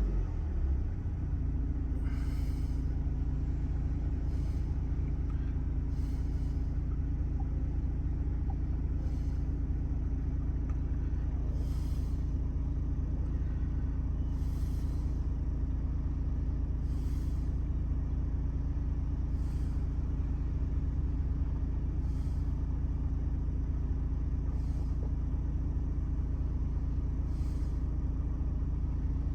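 2018 Ford Transit's 2.0-litre Duratorq diesel engine idling steadily. A faint hiss recurs about every two and a half seconds.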